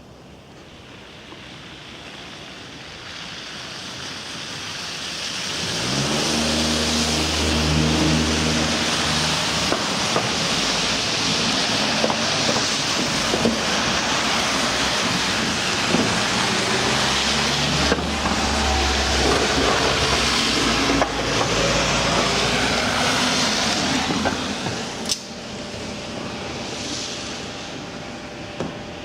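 Electric train on the Kōnan Railway Ōwani Line, growing louder over the first few seconds, then running loud and steady with a low motor hum. It drops away near the end, where there is a sharp click.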